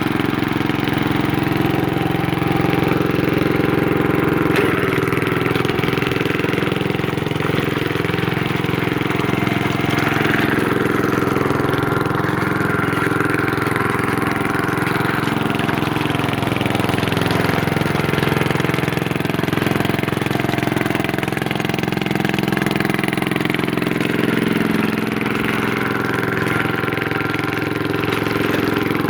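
Engine of a Pull-Away tracked garden tractor running steadily on its first test drive, its pitch shifting a little as the throttle and load change.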